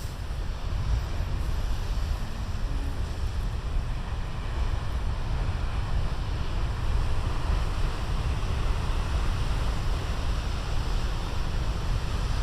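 Large ocean waves breaking on a beach, a steady rush of surf, with wind rumbling on the microphone.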